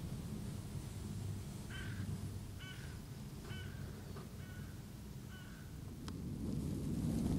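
A bird calling five times in a row, about one call a second, over a low wind rumble on the microphone that grows louder near the end.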